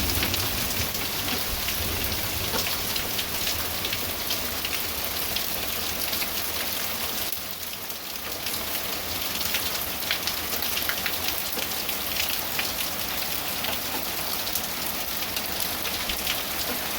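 Hail pelting down on hard surfaces: a steady hiss of heavy precipitation made of countless small sharp impacts.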